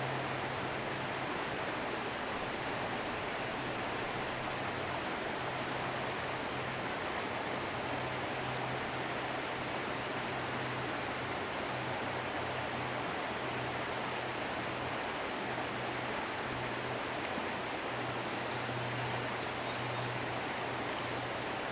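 River water rushing steadily, with a constant low hum underneath and a few faint high chirps near the end.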